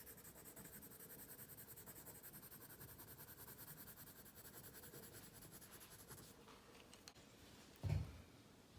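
Pencil shading on paper: fast, even back-and-forth strokes, faint, stopping about six seconds in. A soft low thump comes near the end.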